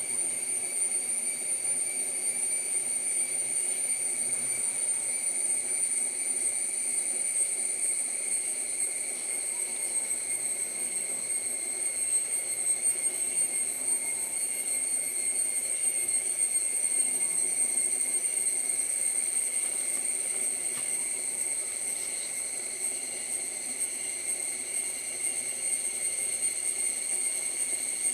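Rainforest insect chorus: a steady, unbroken high-pitched drone of several shrill tones over a soft hiss.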